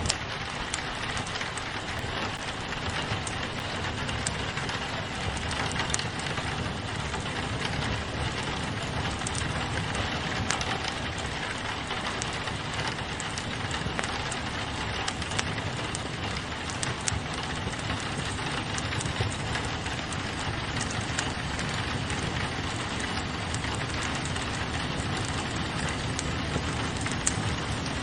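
Steady rain pattering on a window pane, mixed with a crackling wood fire whose small pops and snaps are scattered throughout.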